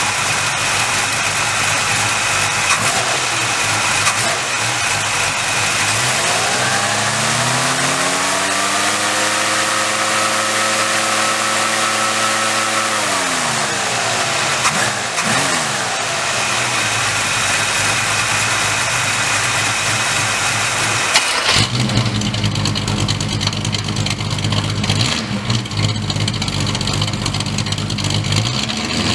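1960 Studebaker Lark III engine running, revved up once about six seconds in, held for several seconds, then let back down to idle. About two-thirds of the way through it is heard at the dual exhaust tips, idling with a deeper, more uneven sound.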